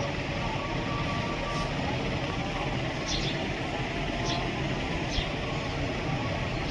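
Steady low rumble of city traffic, with three short high chirps from a small bird about three, four and five seconds in.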